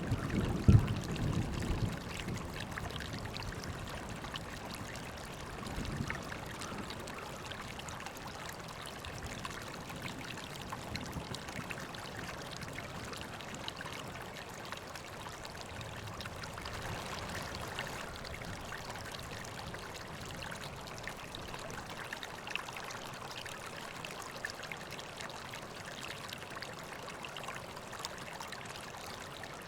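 River water flowing and splashing steadily, with a louder, deeper burst in the first two seconds.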